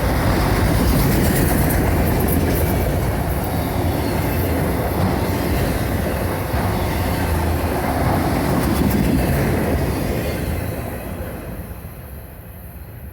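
Autorack freight cars of a CSX train rolling past, steel wheels rumbling and clicking over the rail joints with some squealing. The sound fades away over the last couple of seconds as the train moves off.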